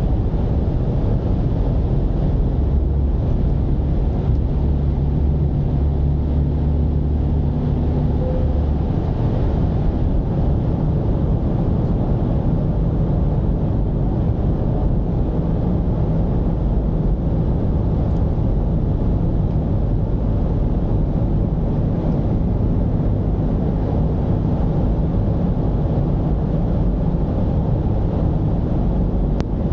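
Mercedes-Benz V220's diesel engine running under way with road rumble: a steady low drone, its engine tone clearest and most even from about three to nine seconds in.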